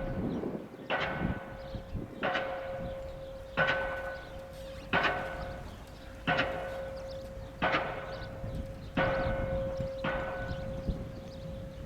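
Diesel pile hammer driving a steel H pile, about nine blows at a steady pace of roughly one every 1.3 seconds. Each blow is a sharp clang with a bell-like metallic ring from the pile that carries on between strikes.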